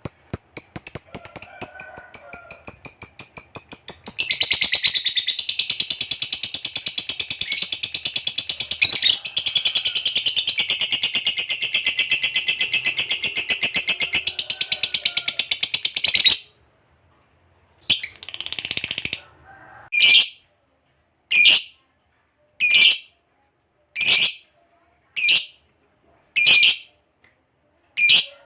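A lovebird's long, very rapid, high-pitched chattering trill (the 'ngekek panjang'), which stops abruptly about 16 seconds in. After a short pause, single sharp chirps follow, roughly one every second and a half.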